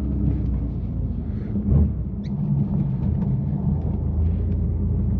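BMW F80 M3's twin-turbo straight-six, with catless downpipes and an always-open valved exhaust, running at low revs with a steady low drone while the car creeps through snow. A single thump comes about two seconds in.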